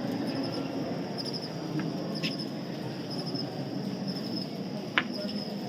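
Steady background murmur with repeated short trains of high chirps, insect-like, and a single sharp click near the end.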